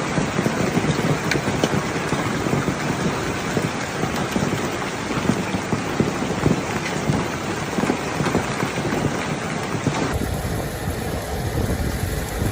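Hail and heavy rain pelting hard surfaces, a dense, steady clatter of many separate impacts. About ten seconds in, it changes to another storm recording with more low rumble.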